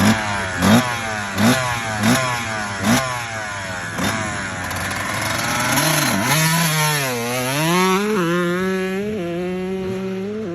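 Two-stroke Honda dirt bike engine revved in five quick throttle blips about 0.7 s apart. It then runs continuously, its pitch dipping and climbing a couple of times before holding steady near the end.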